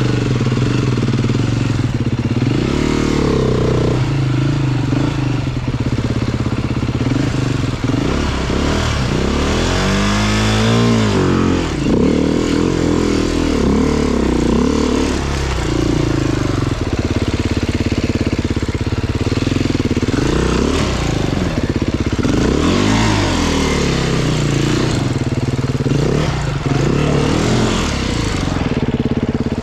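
Enduro motorcycle engine revving up and down over and over as the rider works the throttle through rough terrain, with sharp climbs and drops in pitch about ten seconds in and again a little past twenty seconds.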